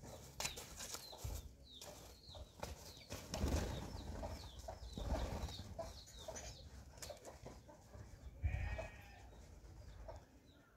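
Small birds chirping over and over, with a few low thuds and a short animal call about eight and a half seconds in.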